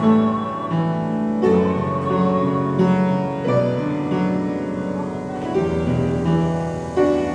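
Piano music: slow chords changing about every half second, under a long-held, slightly wavering melody note.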